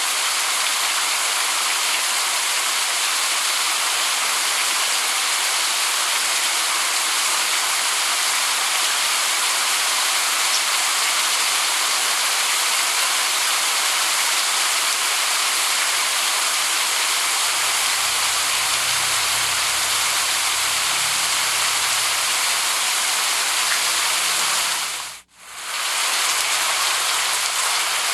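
Steady heavy rain hiss, with a faint low rumble underneath for several seconds past the middle. Near the end the rain fades out to almost nothing for a moment and comes straight back, like a loop seam in the recording.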